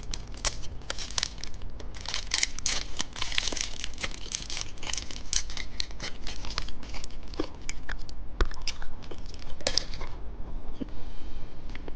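Candy wrapper being crinkled and torn open, a dense run of crackles that eases off near the end.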